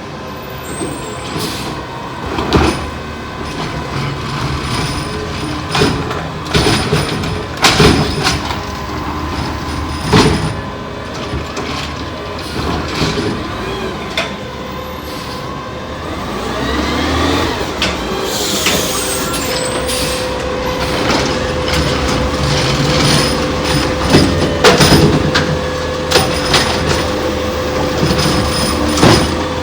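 Refuse truck with a McNeilus ZR automated side-loader body running, with repeated sharp knocks and bangs. About two-thirds of the way through, the engine revs up in a rising sweep, and a steady whine holds after it.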